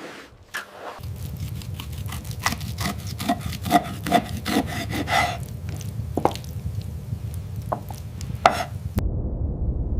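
Scrubbing by hand: a run of irregular rubbing and scraping strokes, with sharp knocks mixed in. About a second before the end it cuts off suddenly, and a steady low rumble takes over.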